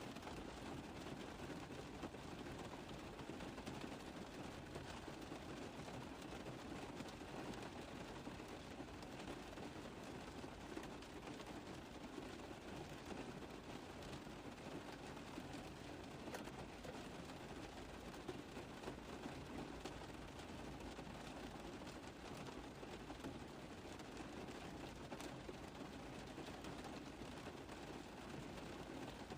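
Steady rain on a car roof: a dense, even hiss of many small drops tapping, with no let-up or change.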